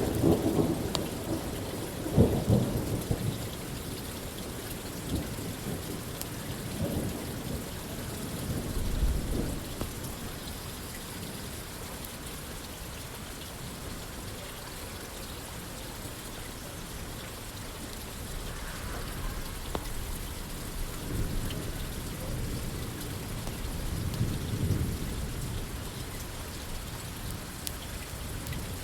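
Steady rain pattering on a roof, with low rolls of thunder rumbling at the start, again about eight seconds in, and again in the last third.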